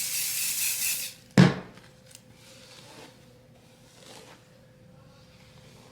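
A hiss lasting about a second, then a single sharp knock, followed by faint small clicks and handling noises.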